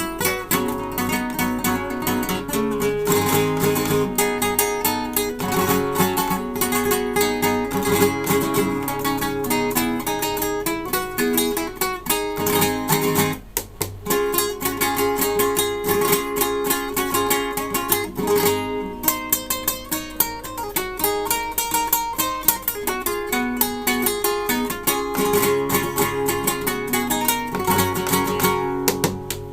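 Acoustic guitar playing a busy line of plucked notes, with a brief break about 13 seconds in.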